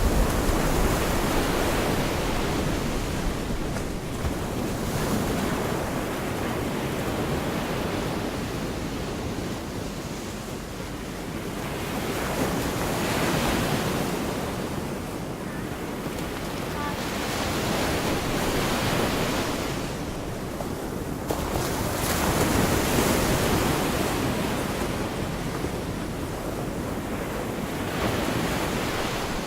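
Sea waves breaking and washing onto a beach, the surf swelling and easing every few seconds, with wind rumbling on the microphone.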